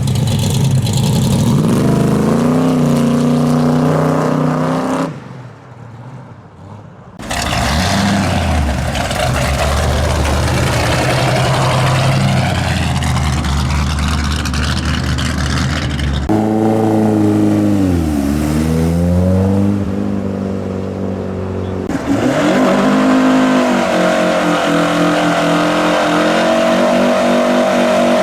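Muscle car and hot rod engines pulling away one after another, revving up and down as each car accelerates off. There is a brief quieter gap about five seconds in, and the engine sound changes abruptly twice more as one car gives way to the next.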